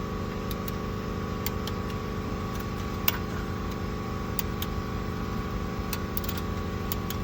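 Sharp, irregular metallic clicks from a click-type torque wrench being worked on cylinder head bolts, over a steady mechanical hum.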